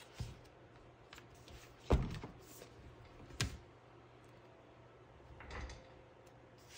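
A few light knocks and handling noises on a desk as planner stickers and papers are handled: a sharp knock about two seconds in is the loudest, with smaller ones near the start and about three and a half seconds in, and a soft rustle near the end.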